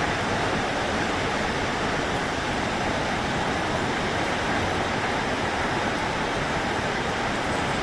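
Steady, unbroken rushing of a large waterfall, Snoqualmie Falls.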